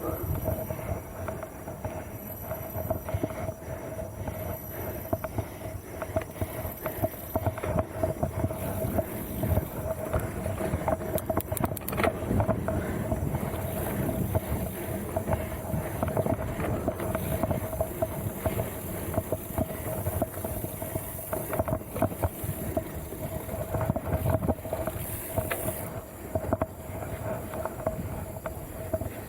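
Mountain bike rolling over a rough trail, with continuous rumbling and rattling from the tyres and frame and a steady hum underneath.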